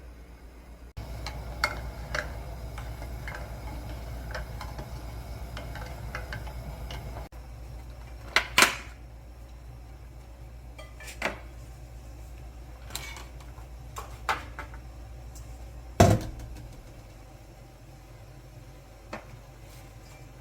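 Kitchen handling sounds: dishes and utensils clinking and knocking now and then over a low steady hum, with one louder knock near the end.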